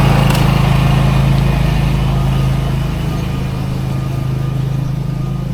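A small engine running steadily with a low hum, growing fainter over the second half.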